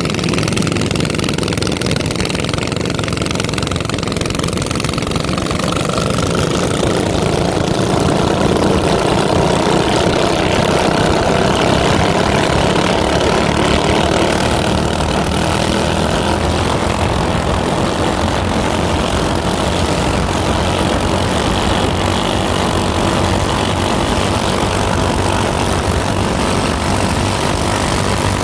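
Small minibike engine running steadily, its buzz swelling a little in the middle.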